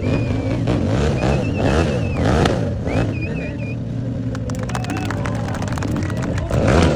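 Stunt motorcycle engine revving hard, its pitch rising and falling again and again, with high wavering squeals in the first few seconds.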